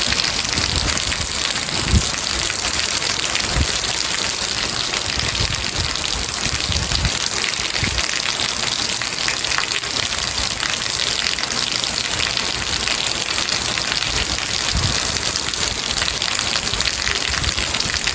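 Steady rain falling, a dense even hiss, with a few soft low thumps, the clearest about two seconds in.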